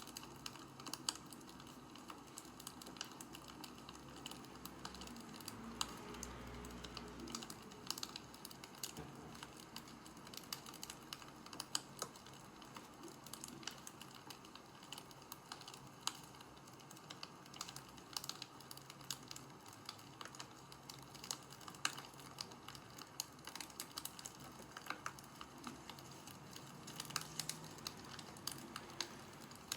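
Wood fire crackling, with irregular sharp pops and snaps over a soft low rush.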